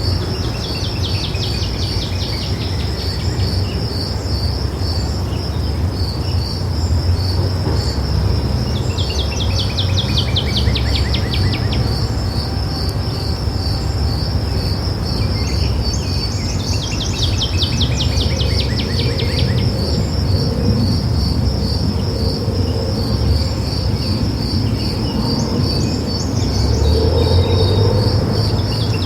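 Birds singing, each song a descending trill a few seconds long, repeated every several seconds over an unbroken, evenly spaced high chirping about three times a second. A low rumble of background noise runs underneath.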